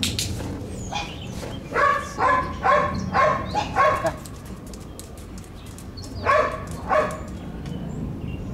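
Dog barking in short sharp barks: a quick run of about six, then two more a couple of seconds later.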